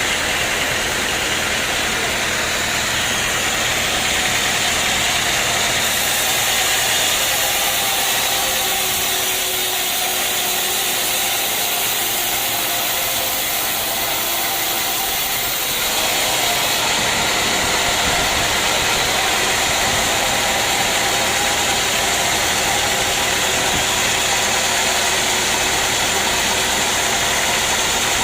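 Sawmill machinery running steadily with a loud, continuous mechanical noise; the sound changes character about halfway through.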